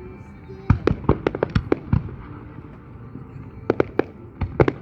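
Fireworks going off: quick strings of sharp bangs and cracks, one cluster of about a dozen in under a second and a half early on, then two shorter clusters near the end.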